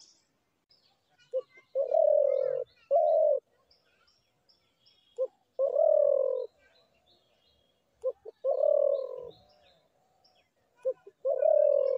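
Dove cooing: four low phrases, about one every three seconds, each a short note or two followed by a longer, slightly falling coo. Small birds chirp faintly in the background.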